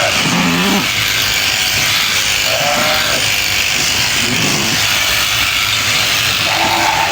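Sheep bleating about four times over the steady running buzz of shearing clippers.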